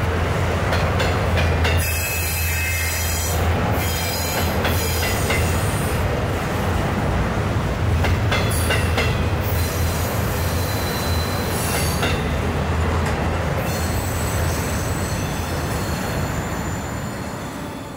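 Double-stack container freight train rolling across a steel bridge: a steady rumble of wheels on rail with scattered clicks and thin, high wheel squeal. It fades out near the end.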